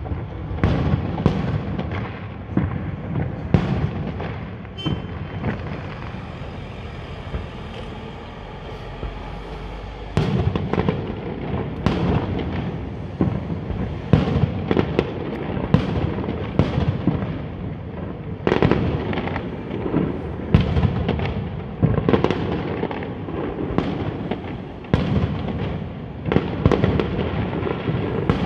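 Fireworks going off: a long run of sharp bangs over a low rumble. The bangs thin out for a few seconds near the middle, then come thick and fast from about ten seconds in. There is a brief high whistle about five seconds in.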